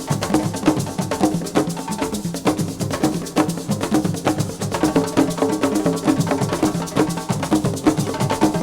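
Senegalese assiko band music: fast, dense drum percussion with many sharp clicking strokes over a steady groove.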